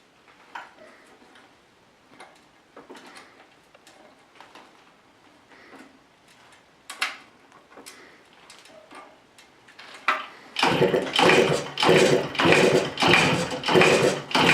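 Faint clicks and knocks, then about ten seconds in a small engine starts and runs loudly and unevenly, pulsing a few times a second.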